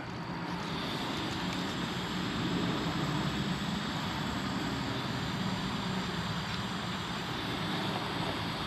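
Heat gun running steadily, its fan blowing with a faint high whine that comes in about half a second in.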